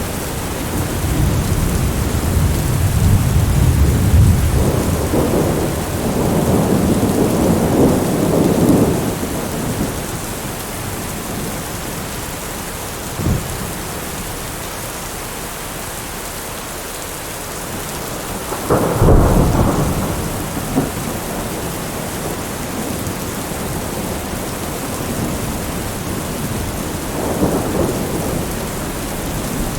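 Heavy rain beating steadily on a window pane, with thunder over it: a long rumble through the first nine seconds or so, a short sharp crack about a third of the way in, a louder clap about two-thirds in, and a softer rumble near the end.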